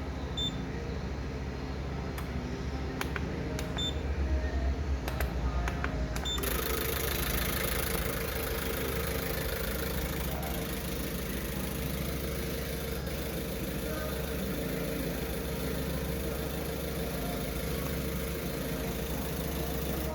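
Peugeot 406 2.0 HDi four-cylinder diesel engine being started and then idling steadily: it catches about six seconds in. It is running on a freshly repaired EDC15C2 engine control unit, and starting shows the unit working.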